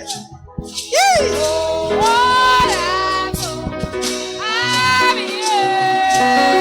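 Gospel worship singing with instrumental accompaniment. After a brief dip at the start, a singer comes in with a swooping note and then holds long notes with vibrato.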